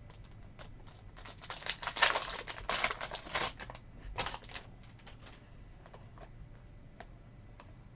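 Foil trading-card pack wrapper being crinkled and torn open, in a burst of crackling from about a second in and again briefly a second later, with small clicks of cards being handled.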